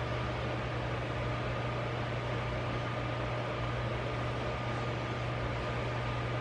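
Steady machine hum with an even hiss and a faint high whine, unchanging throughout.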